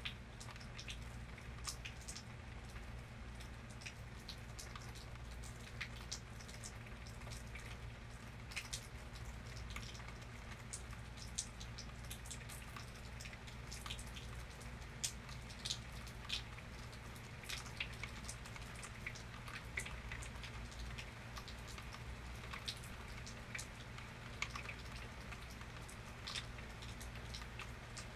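Rain falling, with individual drops ticking irregularly and close at hand, over a low steady hum.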